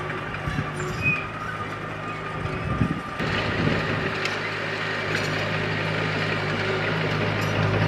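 Bulldozer diesel engine running steadily, with occasional light clanks. The sound changes abruptly about three seconds in, and the engine grows louder near the end.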